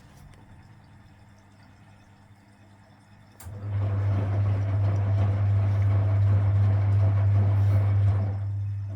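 Vintage Frigidaire front-loading washing machine starting a tumble about three and a half seconds in: its induction motor hums steadily as it turns the drum, with water and wet laundry sloshing inside. After about five seconds the tumble eases off near the end.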